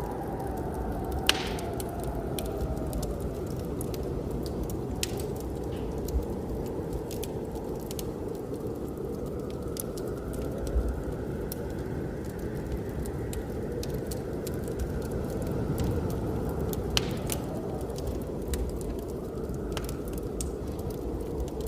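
Wood fire crackling, with scattered sharp pops, the loudest about a second in and another near the end. Underneath is a steady low rush of blizzard wind.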